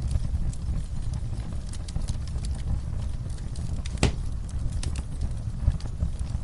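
Wood fire crackling in a fireplace: a steady low rumble of flames with scattered small pops and snaps, and one louder crack about four seconds in.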